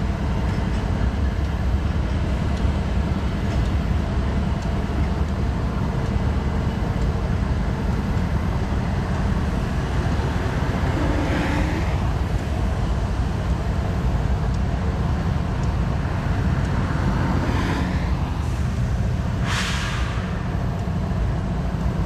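BNSF double-stack freight train rolling past with a steady low rumble. A few short hisses of air break through, the sharpest near the end.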